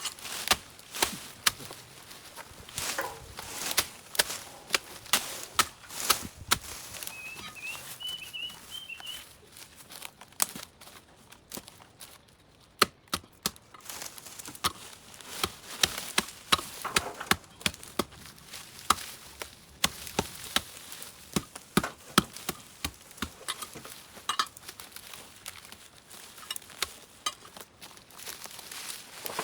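Repeated sharp chopping strokes of a blade cutting through overgrown vines and brush, at irregular intervals of about one to two a second, with a short lull in the middle.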